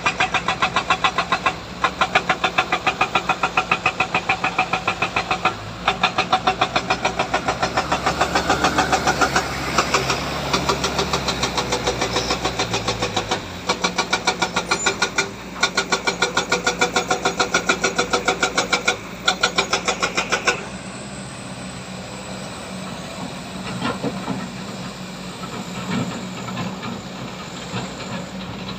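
Heavy diesel machinery working hard, with a loud, fast, even pulsing clatter. About twenty seconds in the clatter cuts off abruptly, leaving a quieter, steady engine running.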